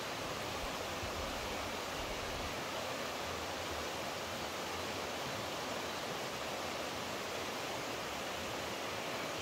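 Steady rushing water, an even hiss with no breaks or changes in level.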